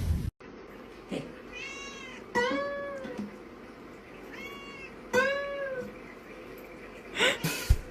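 A domestic cat meowing: two long meows about three seconds apart, each rising and then falling in pitch, each with a fainter, higher mew just before it.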